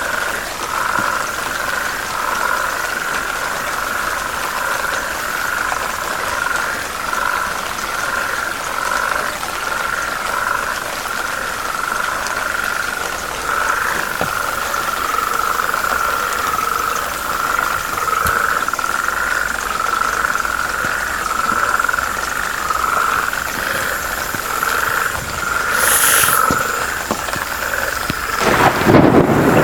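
A chorus of frogs calling continuously, a dense pulsing chatter at a steady pitch. A loud burst of noise comes in just before the end.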